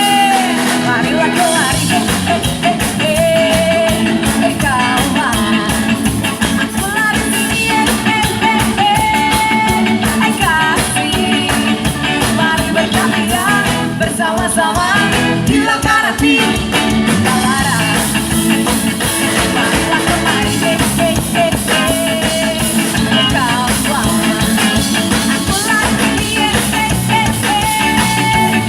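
Ska band playing with a lead singer, guitar and drums in a steady upbeat rhythm.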